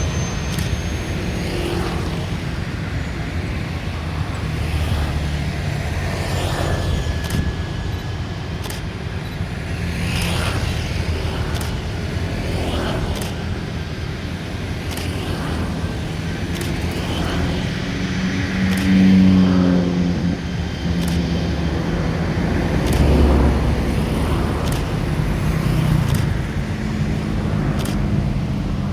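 Steady low rumble of vehicles, with scattered sharp clicks throughout and a couple of brief louder swells.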